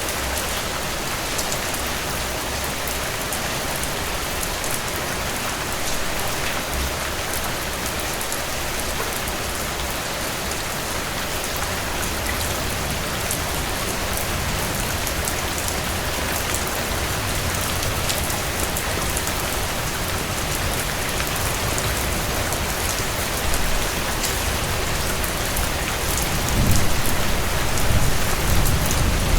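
Heavy rain falling steadily on a cabin porch and roof, a dense even patter. A low rumble builds through the second half and swells in the last few seconds.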